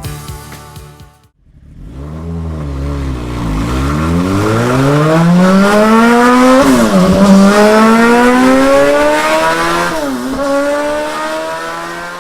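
An engine accelerating hard, its pitch climbing steadily, dropping back twice as if shifting gear, then holding steady near the end.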